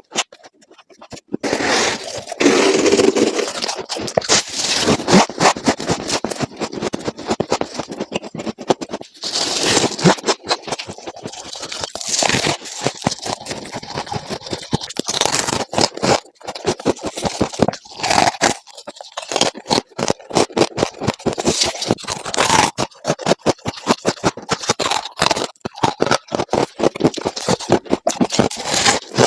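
Close-miked scraping and crunching of refrigerator freezer ice being bitten and chewed: a dense, irregular run of crackling crunches.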